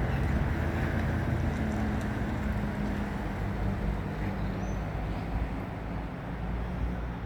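Low, steady rumble of a passenger train, easing off somewhat in the second half.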